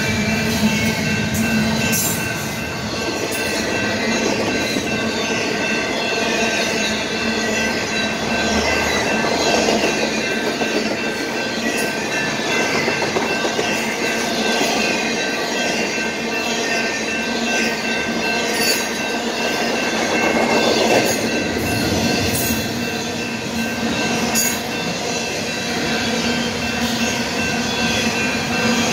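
Double-stack intermodal well cars rolling past at speed: a steady rumble of steel wheels on rail, with a thin, steady high-pitched wheel squeal and a few sharp clicks over rail joints.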